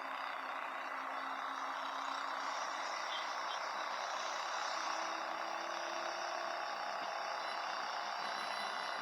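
Steady noise of slow, congested city traffic heard from a motorcycle, with faint engine hums beneath.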